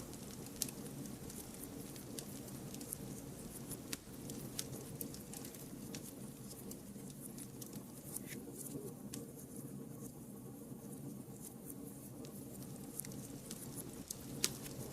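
Wood fire burning with a steady low rush of flames and irregular sharp crackles and pops, the loudest pops about half a second in and near the end.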